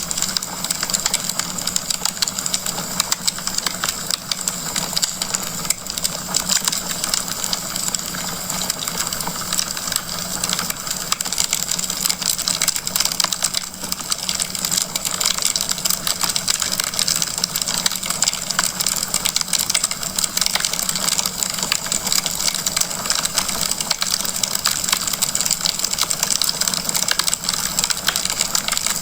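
Wood fire crackling in a fireplace: a dense, continuous run of small pops and snaps over a steady hiss.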